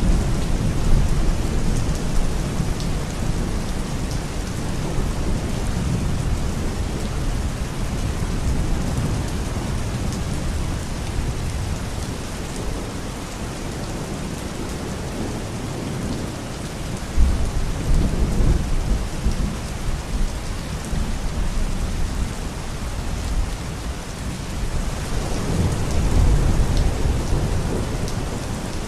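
Steady rain falling, with low rolling thunder rumbles that swell near the start, again about halfway through, and once more near the end.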